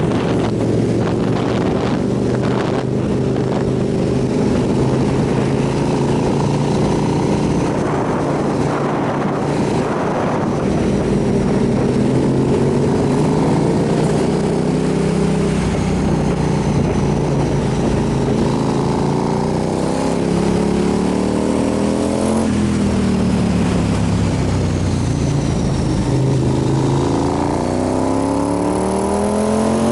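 Motorcycle engine running under way, its pitch climbing and dropping several times as the revs change, and rising steadily near the end, over a steady rush of noise.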